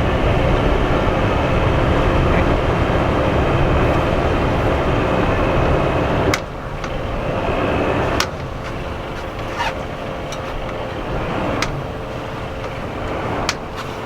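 A sailboat's engine runs steadily as it motors slowly through a marina. There are a few sharp clicks, and the level drops suddenly twice.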